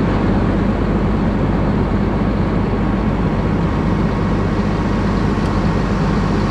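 RoGator self-propelled sprayer's diesel engine running steadily: a constant low hum under an even rush of machine noise.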